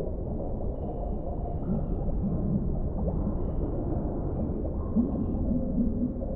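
Deep-sea underwater ambience: a steady low rumble, with wavering low tones rising out of it about two seconds in and again about five seconds in.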